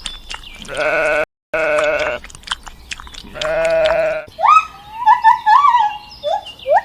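Sheep bleating: three loud, quavering bleats over the first four seconds. From about four and a half seconds in, a chicken follows with a run of short, rising calls.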